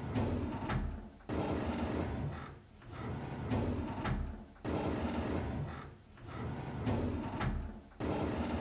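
A drawer sliding open on its runners, a scraping rumble ending in a sharp knock, repeated about every three and a half seconds.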